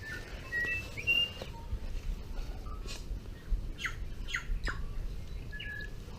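Small forest birds calling: scattered short, clear whistled notes and, a few seconds in, several quick downward-sweeping chirps.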